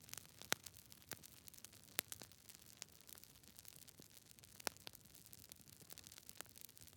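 Close campfire crackling: irregular sharp pops and snaps over a faint hiss, with the loudest pops about half a second in, at two seconds, and near the end of the fifth second.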